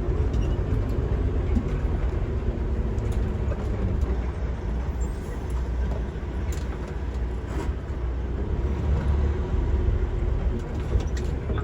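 Semi truck's Cummins diesel engine running as the truck drives, heard from inside the cab as a steady low rumble with a few faint rattles and clicks.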